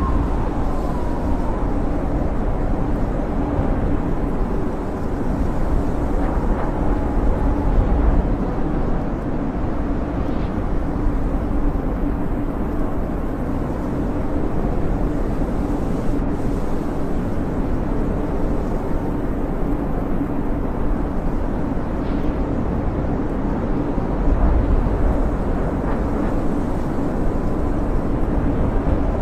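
Snowstorm wind howling steadily: a constant low rushing rumble with a faint whistle, swelling a little now and then.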